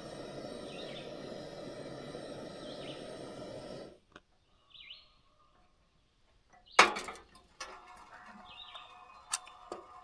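Small birds chirping, short falling calls repeated every second or two, over a steady rushing background that cuts off abruptly about four seconds in. After that, a single chirp, a loud sharp knock a little past the middle, then more chirps and a few light clicks.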